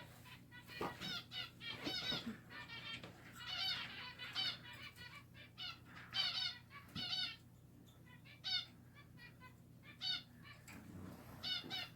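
A flock of caged finches chirping in bouts of short, quick, high-pitched notes, with a brief lull about eight seconds in.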